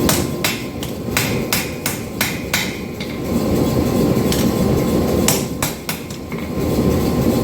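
Hammer blows on a hot 5160 steel knife blank being straightened, about three a second for three seconds, then a few scattered strikes. A steady low rumble runs underneath.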